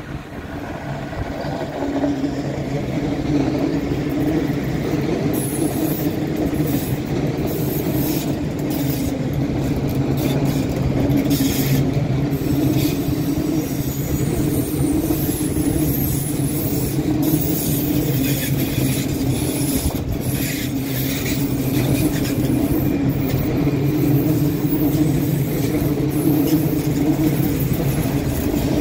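A vehicle running steadily with a low, even hum that builds over the first two seconds and then holds.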